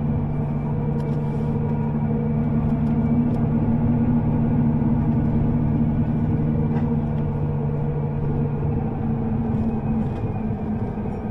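Underground train running, heard from inside the car: a steady rumble with a low motor hum, the hum fading out near the end.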